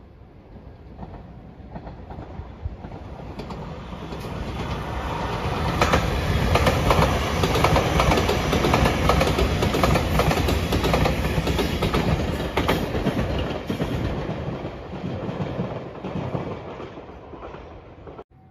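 Shiokaze limited express train passing: a rumble and clatter of wheels over the rail joints that builds up, is loudest midway, fades away, then cuts off suddenly near the end.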